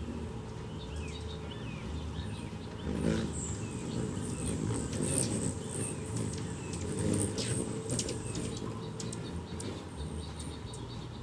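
Small birds chirping with many short, high, sharp chip notes and quick falling calls, over a steady low rumble.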